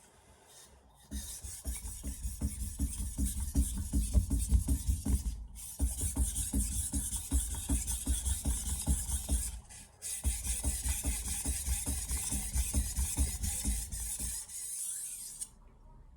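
Santoku blade being stroked by hand back and forth across a wet combination soaking water stone (1000/3000 grit) with slurry on it: a steady gritty scraping of many quick strokes. There are two brief pauses, around five and ten seconds in.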